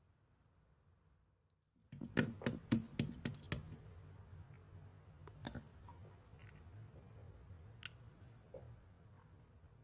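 Clear slime mixed with rainbow beads and charms being squished and pressed, giving a quick run of sharp clicks and pops about two seconds in, then scattered softer clicks.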